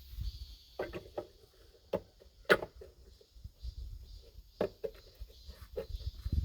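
Scattered sharp knocks and clicks of hands and tools working on a pour-flush toilet's base, the loudest about two and a half seconds in, over a low rumble.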